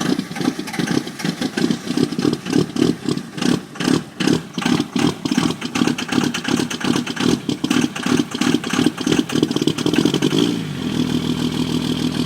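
Vehicle engine running through its exhaust with a lumpy, pulsing idle of about three beats a second. About ten seconds in, it smooths out into a steadier, slightly higher note as the engine picks up.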